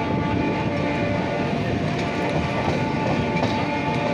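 MEMU electric train running along the track: a steady rumble and rattle with several steady high tones held over it.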